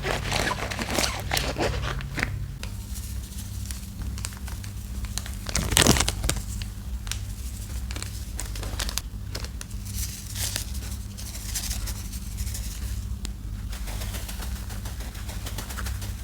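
Laundry-detergent soap paste being worked by hand: irregular wet crackling clicks throughout, with one louder burst just before six seconds in. A steady low hum runs underneath.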